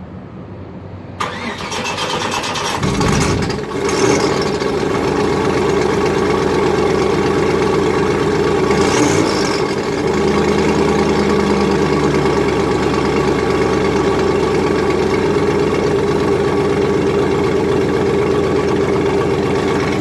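Car engine cold start: the starter cranks briefly about a second in, the engine catches around three seconds with a short rev flare, then settles into a loud, steady idle.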